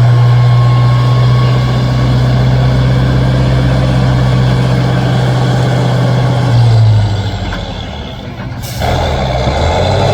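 Heavy off-road trial truck's engine running hard at steady revs, then easing off about two-thirds of the way through before pulling again after a sudden change near the end.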